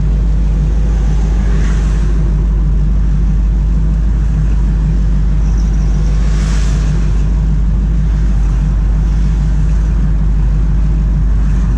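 AMC 360 V8 of a 1979 Jeep CJ7 idling steadily, heard from the driver's seat, with passing traffic swelling faintly about two seconds in and again around six seconds in.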